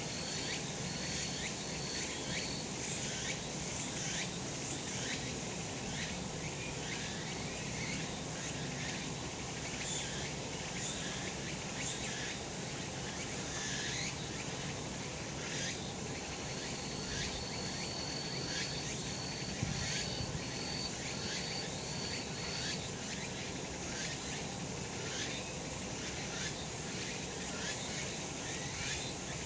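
Cicadas singing in a steady, dense chorus. A row of short repeated high notes joins in near the start and again in the middle.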